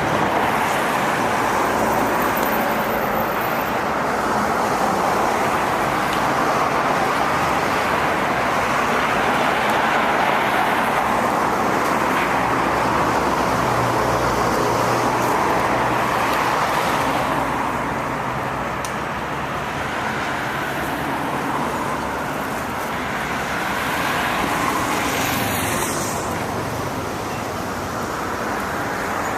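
Steady city street traffic noise, cars and buses passing close by, with a brief high falling squeal near the end.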